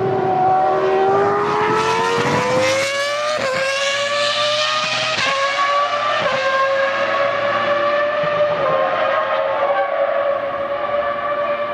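Formula One car engine at high revs, accelerating: its note climbs for the first few seconds, breaks briefly at gear changes about three and a half, five and six seconds in, then holds a steady high pitch that eases slightly near the end.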